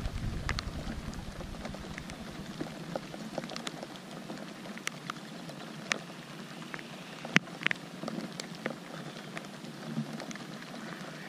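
Steady rain falling on a lake's surface: an even hiss of patter with many sharp single drop strikes. A low rumble of wind on the microphone fades out in the first few seconds.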